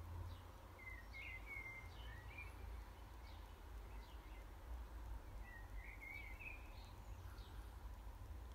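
Quiet background with a steady low rumble and a faint hum, broken twice by short runs of faint bird chirping, about a second in and again about two-thirds through.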